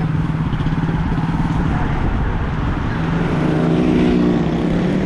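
Small motorcycle engine running steadily at low speed, its pitch rising a little past the middle.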